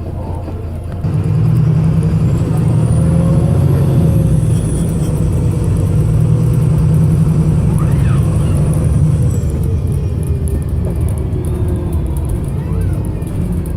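VDL SB200 bus diesel engine pulling hard at full throttle, a heavy low drone that jumps louder about a second in and eases slightly near the end, with a faint high whistle rising and falling over the middle. The engine is misfiring.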